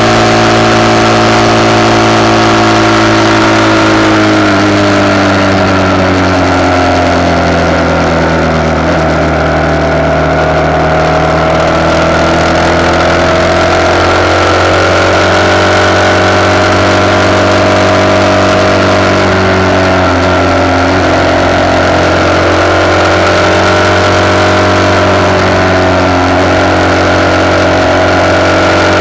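RPS Hawk 250's single-cylinder four-stroke engine, fitted with a de-catted CRF230 exhaust, running at road speed under way. The engine note falls about four seconds in as the rider eases off, climbs slowly back up, dips briefly again about two-thirds of the way through, then holds steady. Wind and road rush run under it on the handlebar-mounted camera's microphone.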